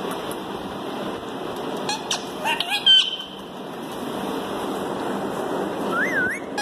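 Green parrot calling: a few short, sharp squawks and gliding notes about two to three seconds in, the loudest near three seconds, then one rising-and-falling whistle near the end, over steady background noise.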